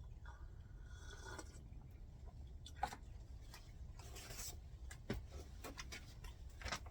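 Faint handling noises: a brief rustle and scattered light clicks and taps, with a soft scrape in the first second or so.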